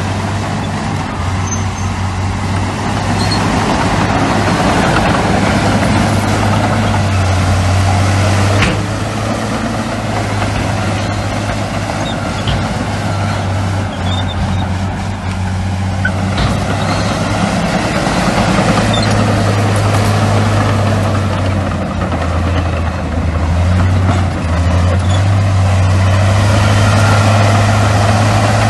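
Heavy diesel earthmoving machinery running steadily under load, a deep constant engine hum with a wash of mechanical noise over it, and one sharp knock about nine seconds in.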